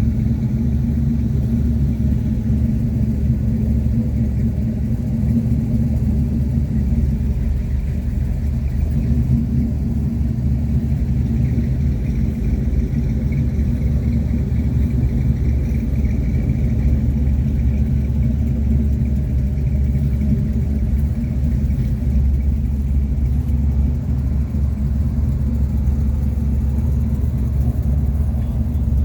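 A motor vehicle's engine running steadily with a low rumble, holding an even pitch with no revving.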